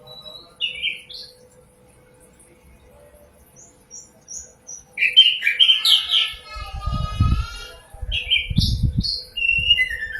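Common nightingale singing: a few separate high whistled notes, then after a quiet gap a loud run of phrases with a fast rattling trill. A low rumble sits underneath during the louder second half, and a faint steady hum runs throughout.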